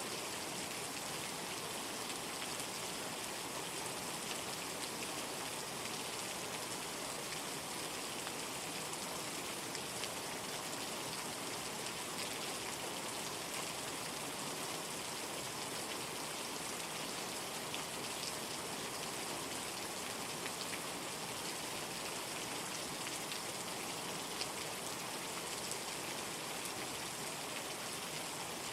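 Steady rain falling in an even hiss, with a few sharper drop ticks now and then.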